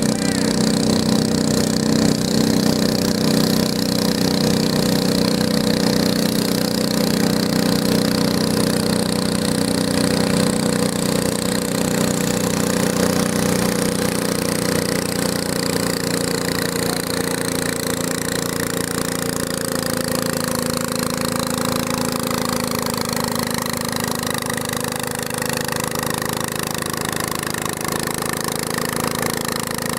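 Garden tractor engine running continuously and loud, its pitch slowly falling through the second half.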